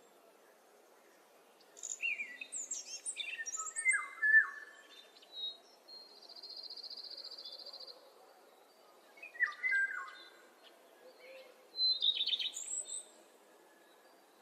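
Songbirds singing in separate phrases of quick falling, sweeping notes: several around two to four seconds in, a buzzy trill about six to eight seconds in, more near ten seconds and a last burst near twelve seconds. A faint steady outdoor background noise lies underneath.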